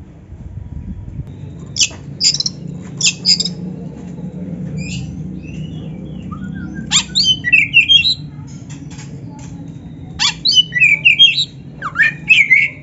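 Oriental magpie-robin (black-chested kacer) singing in short bursts of rapid whistled glides and harsh scratchy notes, with pauses between the bursts. A low steady hum runs underneath.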